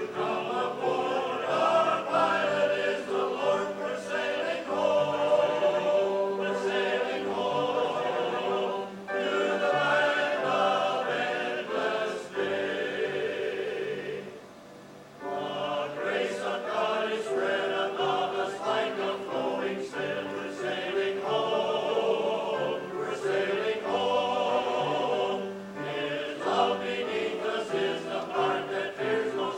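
Choir singing, with a short break about halfway through.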